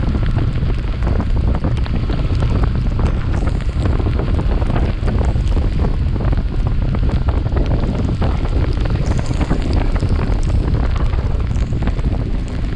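Heavy wind buffeting on the microphone of a chest-mounted action camera on a moving Yamaha FZS V3 motorcycle: a steady low rumble scattered with many small crackles.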